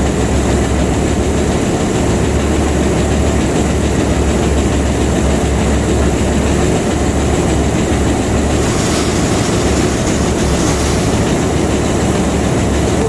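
Heavy diesel engine of a grain semi running steadily as the truck backs up slowly under the auger, with a constant low drone.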